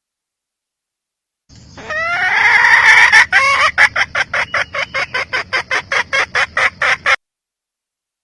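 Hen red junglefowl calling: a drawn-out rising note, then a rapid run of loud clucks, about four a second, that cuts off suddenly near the end.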